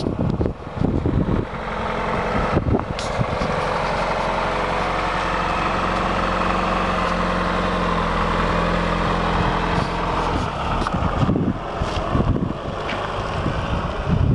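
1988 Pontiac Fiero's engine running steadily at idle, with wind buffeting the microphone in the first two seconds and again in the last few.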